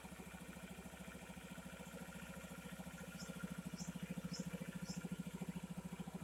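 Honda Ruckus scooter's small single-cylinder four-stroke engine idling with an even, quick putter, growing a little louder about halfway through.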